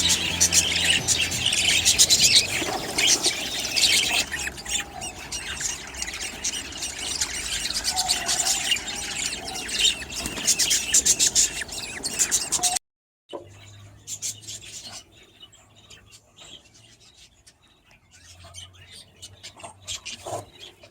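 Budgerigars chirping and chattering rapidly. The sound cuts out briefly about two-thirds of the way through, then goes on sparser and quieter.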